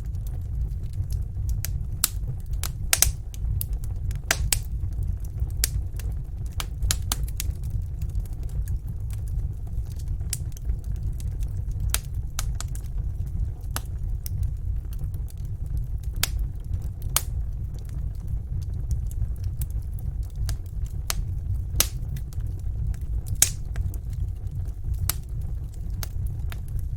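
Fireplace fire crackling and popping: irregular sharp snaps, several a second, over a steady low rumble of the flames.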